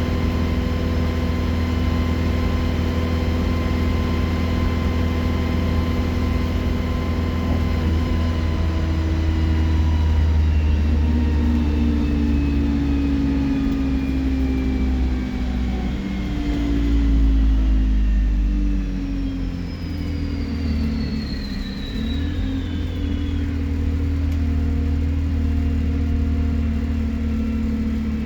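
Alexander Dennis Enviro 200 bus's diesel engine running with a high turbo whistle over a low rumble. The engine and whistle pitches fall away through the middle as the bus slows, a high whistle winding down about two-thirds of the way through, then the engine settles to a steady note near the end.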